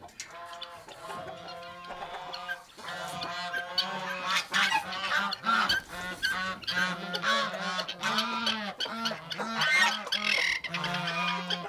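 Geese honking, many overlapping calls, louder from about three seconds in.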